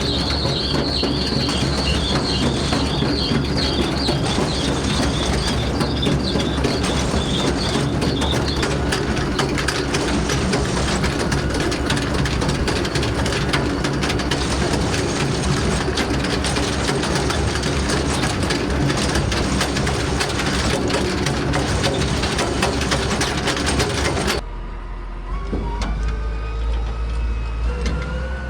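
A farm vehicle running with a loud, steady mechanical rattle and clatter. Near the end the sound cuts abruptly to a quieter engine whose pitch rises as it picks up speed.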